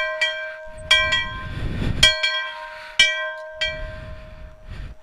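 Small church bell rung by pulling its rope: the clapper strikes about once a second, sometimes twice in quick succession, each strike ringing on and overlapping the next, then the ringing dies away after the last strike.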